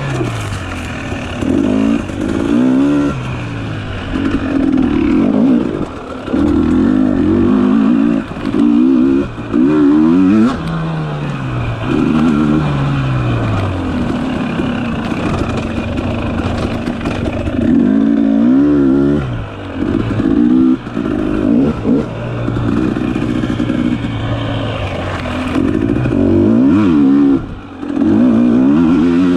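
Dirt bike engine revving up and falling back over and over, its pitch climbing and dropping every second or two, with several brief dips as the throttle is shut.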